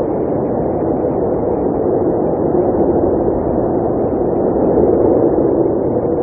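Blizzard wind blowing steadily, a low rushing noise that swells slightly about five seconds in.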